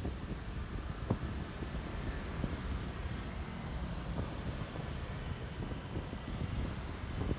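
Wind buffeting the microphone over the low, steady running noise of a Honda ADV 150 scooter being ridden.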